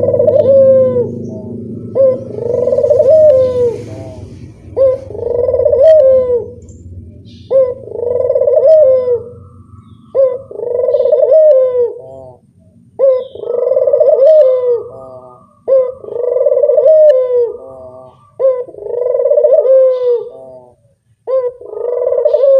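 Barbary dove (burung puter) cooing over and over, nine coos about two and a half seconds apart. Each coo is a short sharp note followed by a longer rolling coo.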